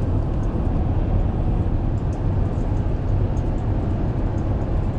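Steady low rumble of a vehicle being driven, heard from inside the cab: engine and road noise with no distinct events.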